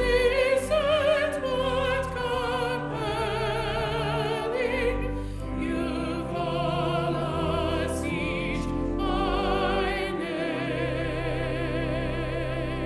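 A classical-style singing voice with strong vibrato over sustained instrumental accompaniment, held notes carrying the melody.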